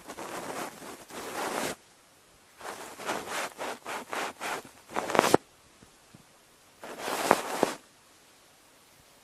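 Cotton swab swirling and rubbing against the ear of a binaural microphone, close and scratchy, heard as a rubbing stretch, then a run of short strokes, then one more burst, with quiet pauses between.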